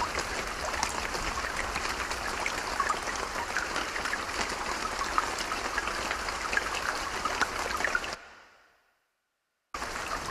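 Creek water running steadily, a rushing babble with many small trickles and splashes. It fades out about eight seconds in, leaving about a second and a half of silence, then the water starts again near the end.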